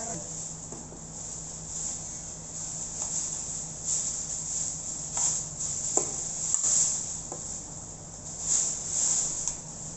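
A steady high-pitched hiss that swells and fades irregularly, over a low steady hum, with a few light clicks about five, six and seven seconds in.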